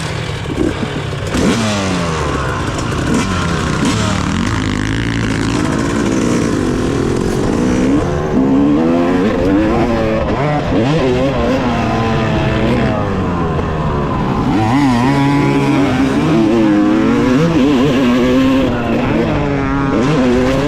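2018 Yamaha YZ250X two-stroke dirt bike engine revving hard, its pitch rising and falling over and over as it accelerates and shifts on the track.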